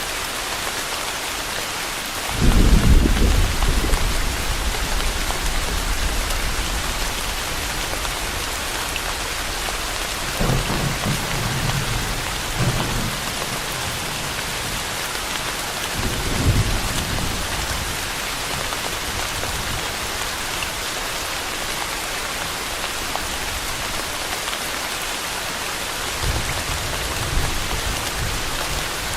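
Steady rain falling, with several low rolls of thunder: the loudest about two and a half seconds in, fading over a couple of seconds, and quieter ones around the middle and near the end.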